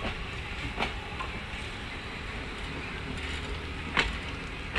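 Passenger train running, heard from an open coach window: a steady running noise of the wheels on the rails. A few sharp clacks cut through it, one about a second in and two near the end.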